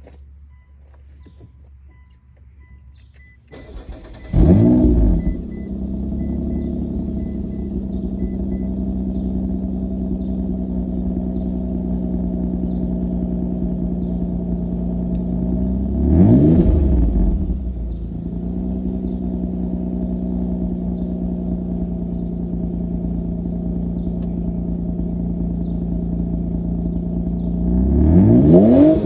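Mitsubishi Eclipse engine started: a faint repeating beep, then a short crank that catches about four seconds in with a quick rev flare. It settles into a steady idle and is revved briefly twice, once around the middle and once near the end.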